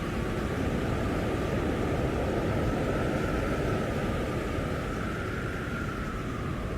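Strong blizzard wind blowing steadily: a deep, even rushing noise with a faint whistle that drifts up a little and back down.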